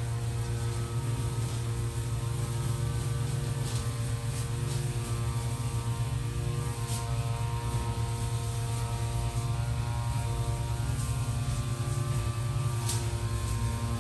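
A steady, even mechanical or electrical hum, with a few faint, brief high-pitched ticks scattered through it.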